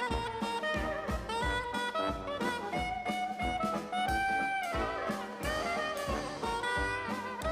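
Swing-style jazz music: saxophone and brass playing a melody over a steady beat of about two pulses a second.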